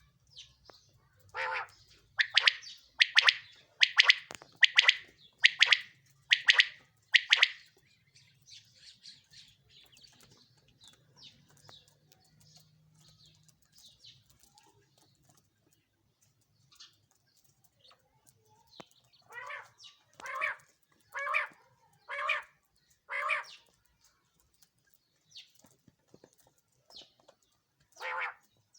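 Common quail calling: a run of about eight sharp repeated calls roughly a second apart, then faint chirps, then a second run of five fuller, lower calls, with another run starting at the end.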